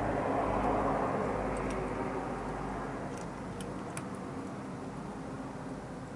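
A vehicle passing and fading away, with a few faint clicks between about one and a half and four seconds in.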